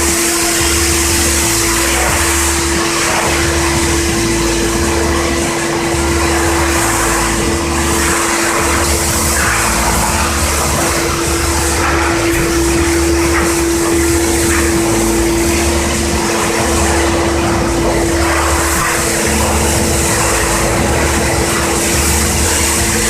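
High-pressure washer running and spraying water: a steady hum with hiss over it and a slow, even pulsing throb underneath.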